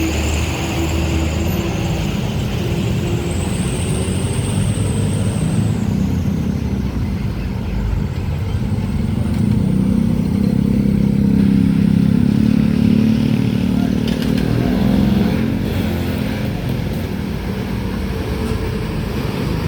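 Road traffic with a heavy truck's diesel engine passing. It grows loudest around the middle and then eases off.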